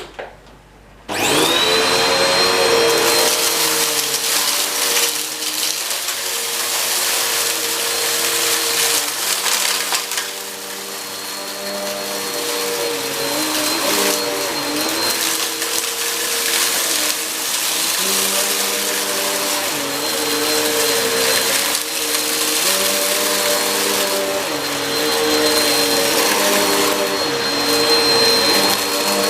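Bagless upright vacuum cleaner (the model also sold as the Black & Decker Air Swivel Lite and Russell Hobbs RHUV3002) switching on about a second in, its motor spinning up with a rising whine. It then runs steadily while cleaning carpet, its pitch wavering.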